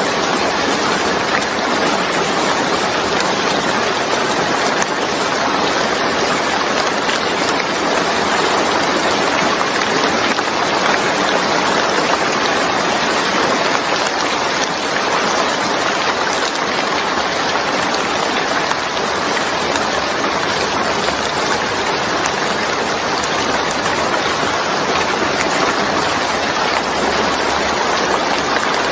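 Steady rain falling, an even, unbroken hiss of drops with no pauses or distinct events.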